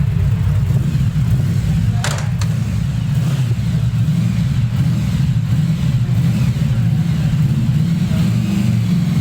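Yamaha VMAX 1700's V4 engine running steadily at low revs, a low-pitched exhaust note, with a brief sharp noise about two seconds in.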